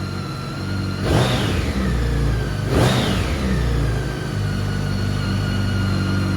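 2009 BMW K1300 GT's inline-four engine idling, blipped on the throttle twice: two short revs that rise and fall back, about a second in and again about two seconds later.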